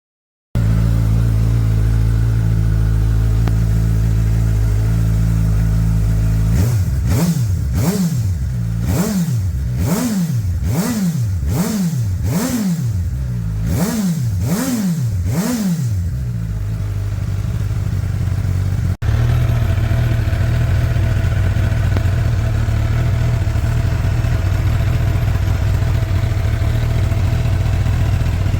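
Suzuki GSX-S1000 Katana's inline-four engine idling, then revved in a string of about nine quick throttle blips, roughly one a second, each rising and falling, before settling back to idle. About two-thirds through, a sudden cut leads to a second recording of the bike idling with a different exhaust note, as in a before-and-after comparison of the stock and the new Cobra exhaust.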